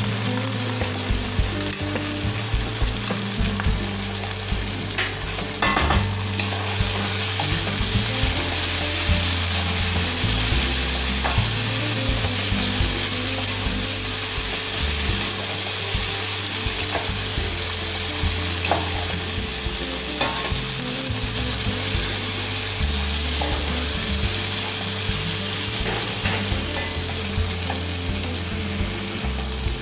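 Onion, tomato and spice masala, with turmeric and chili powder just added, sizzling in oil in a stone-coated pot while a wooden spatula stirs and scrapes through it. This is the masala being fried until the oil separates. The sizzle gets louder about six or seven seconds in.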